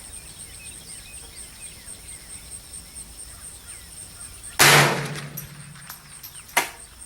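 A .22 LR semi-automatic rifle, a Smith & Wesson M&P 15-22, firing one loud shot a little after halfway through, its report trailing off over about a second, then a second, shorter sharp crack about two seconds later. Insects chirp steadily in the background.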